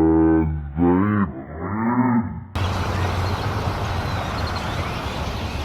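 Cattle mooing, several long calls one after another. About halfway through, the sound cuts abruptly to a steady rushing noise.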